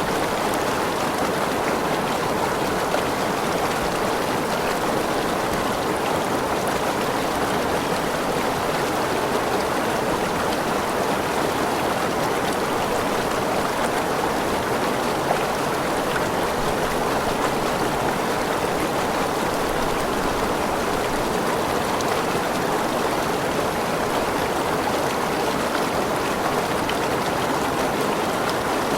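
Waterfall splashing and rushing steadily into a forest pool, an even wash of falling water with no change.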